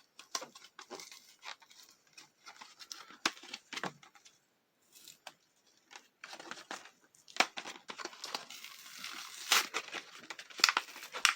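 Toy packaging being torn open and handled: crinkling, tearing and small clicks in scattered bursts, with a short pause about halfway through.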